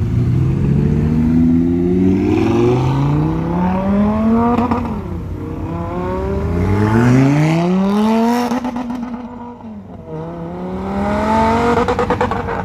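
Sports car engines accelerating hard away, revving up in pitch through the gears and dropping at each shift. A brief lull about nine seconds in, then another car pulls away, revving up again.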